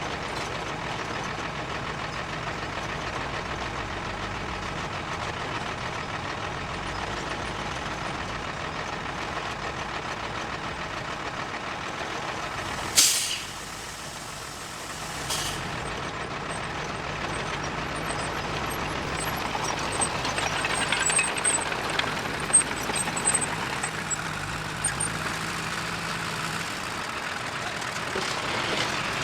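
Heavy diesel machinery running steadily. About halfway through a truck's air brake gives a loud, sharp hiss that fades over about a second, followed two seconds later by a shorter hiss. After that the machine noise builds, with scattered sharp knocks.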